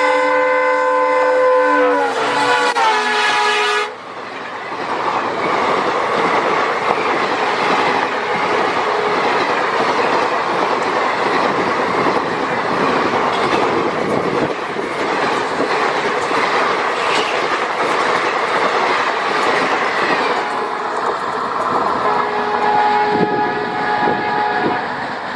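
Diesel locomotive horn blowing a sustained multi-tone blast that drops in pitch as the engine passes and cuts off about four seconds in. The loud rush and rumble of a passenger train's coaches running past at speed follows, and steady tones come back faintly near the end as the train draws away.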